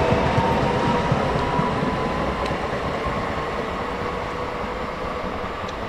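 Electric multiple unit train pulling away and receding: rumble of wheels on track with a motor whine that rises slowly in pitch as it gathers speed, growing fainter toward the end.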